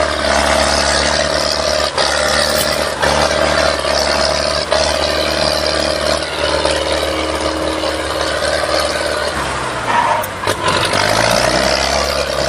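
Tractor engine running steadily, its pitch dropping briefly about ten seconds in and then rising back.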